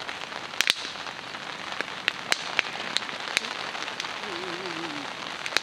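Steady rain falling on a camp tarp, with sharp clicks scattered through, the loudest a pair just under a second in.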